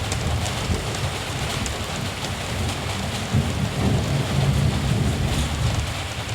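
Steady rain falling, with a low rumble of distant thunder that swells about halfway through and then fades.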